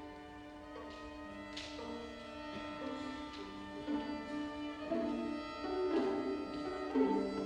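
Chamber string orchestra playing a slow passage of held bowed notes that move step by step, growing louder in the second half.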